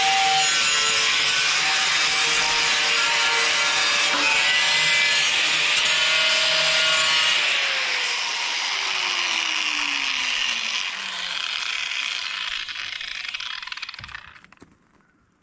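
Power-tool wire wheel scrubbing against a part with a loud, harsh, steady scraping hiss. About seven seconds in the scrubbing stops and the motor coasts down with a falling whine that fades away over several seconds.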